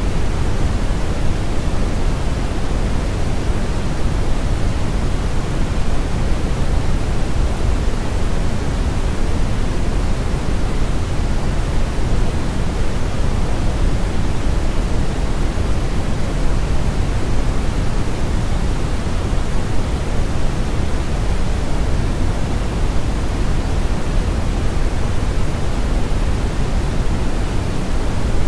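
Steady, unchanging brown noise: a deep, rumbling hiss weighted toward the low end, with the highs rolled off.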